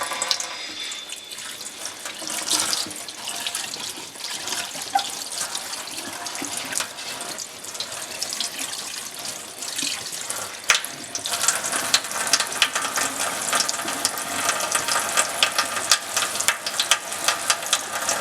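Tap water running into a sink and splashing over a stainless steel exhaust tip as it is rinsed, with many small clicks and taps. It gets a little louder in the last third.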